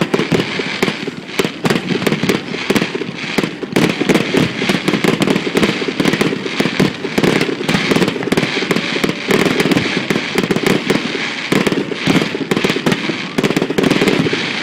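Aerial fireworks display going off in a dense, rapid barrage: many sharp bangs and crackles one after another, with a heavy low rumble beneath.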